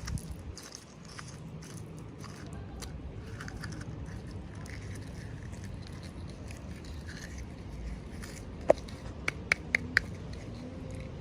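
Small packaging and plastic pieces being handled, rustling and scraping softly. Near the end there is one sharp click, then a quick run of four more.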